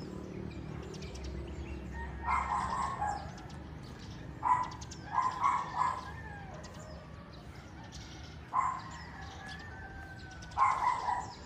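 Roosters crowing four times, with small birds chirping faintly in the background.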